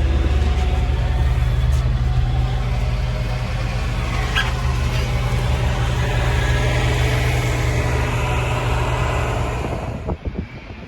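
A motor vehicle engine running steadily with a low, even drone. It cuts off abruptly near the end, followed by a few knocks.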